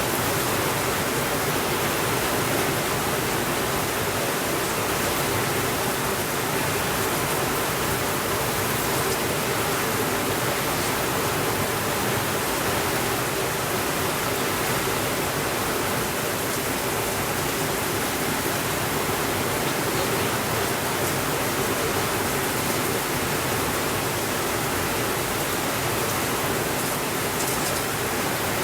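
Steady heavy rainfall, an even, unbroken hiss with no thunder.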